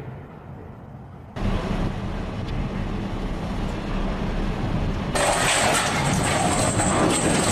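Heavy machinery and vehicle engine noise that changes abruptly twice, about a second and a half in and again about five seconds in, each time getting louder and harsher.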